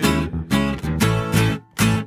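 Acoustic guitar strummed in strokes about every half second over a bass line, with the last sung word held at the start. The strumming is cut short briefly near the end.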